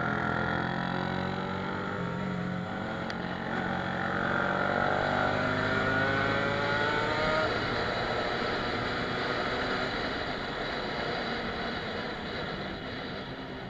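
A 125 cc sport motorcycle engine accelerating, its pitch rising for several seconds, then a steadier run, under rushing wind noise.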